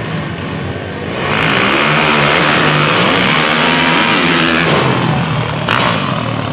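Small dirt drag racing motorcycles launching about a second in and accelerating hard, engines revving up with shifting pitch for a few seconds.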